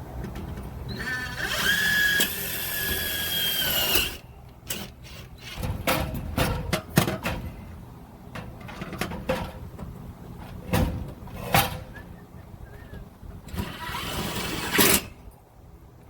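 Power drill running for about three seconds as it starts the hole for a self-tapping screw, its whine dipping as it stops. A string of clicks and knocks follows, then a second short drill run near the end.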